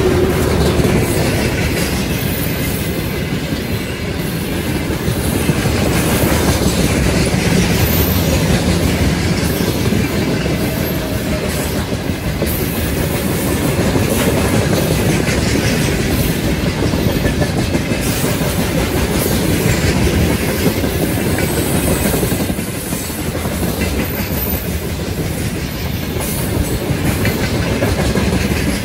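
Freight train of covered hopper wagons passing at about 54 km/h, its wheels running steadily on the rails.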